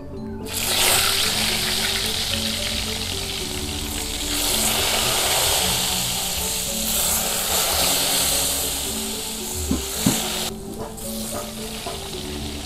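Battered tempeh slices sizzling in hot oil in a wok, the frying starting about half a second in and easing briefly near the end, over background music. Two short knocks about ten seconds in.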